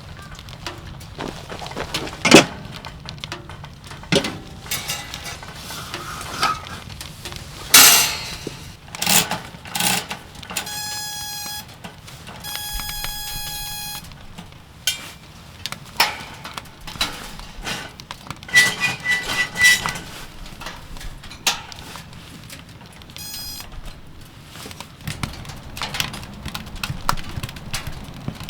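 A series of irregular knocks, clicks and clatter, with two short buzzing tones about ten and thirteen seconds in and a run of light high ticks near the middle.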